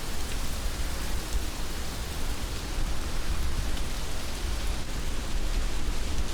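Heavy rain falling steadily: a dense, even hiss with a steady low rumble underneath.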